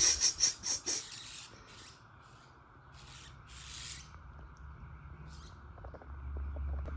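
Short scratchy rubbing or scraping noises, a quick cluster in the first second and a few more spaced out after, with a low rumble building near the end.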